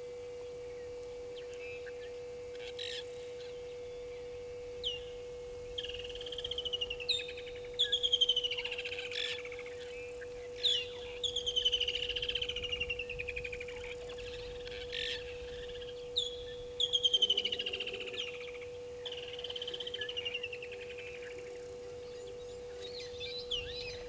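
Wild birds calling in repeated loud phrases from about six seconds in. Each phrase slides down in pitch with a fast flutter, with short sharp notes between them, over a steady low hum.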